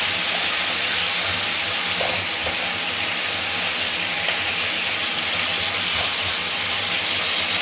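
Chicken pieces sizzling steadily in sesame oil in a wok as they are stir-fried with a spatula, cooking to half done.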